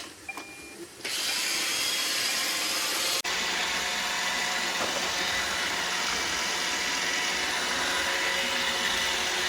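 iRobot Roomba Vac Essential (Q0120) robot vacuum starting its run: its suction motor and brushes start about a second in with a loud, steady whirring noise. There is a momentary break about three seconds in, after which a low steady hum joins.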